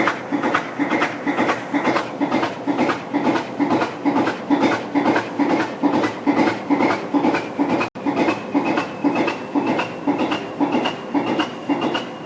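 English Electric Class 20 diesel locomotive's V8 diesel engine running shortly after a cold start, with an even, pulsing beat of about three pulses a second. A thin, high, steady whistle joins about eight seconds in.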